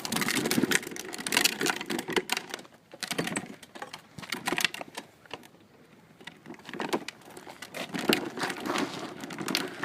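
Irregular clicks and rustling handling noise, dying down to a lull about five seconds in and then picking up again.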